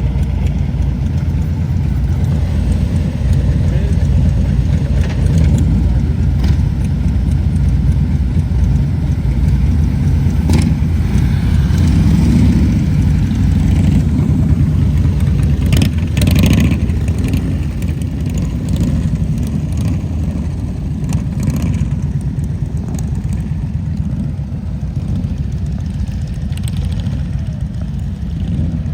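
Motorcycle engines running at low speed in a steady low rumble, swelling a little louder near the middle.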